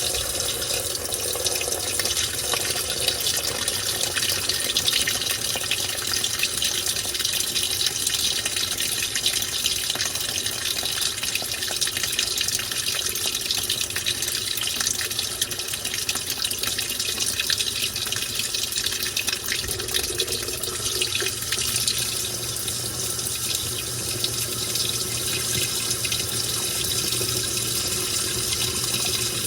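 Washing machine with water rushing steadily in the tub, a continuous even splashing hiss.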